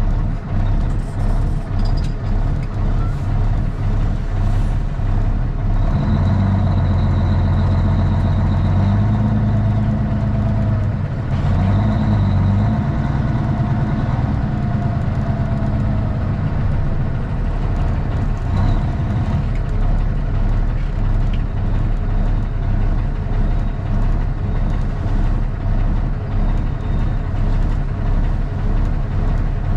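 Straight-piped Cummins ISX straight-six diesel in a Kenworth T800 running steadily. About six seconds in its exhaust note grows louder and heavier for roughly ten seconds, then it settles back to a steadier, lighter drone.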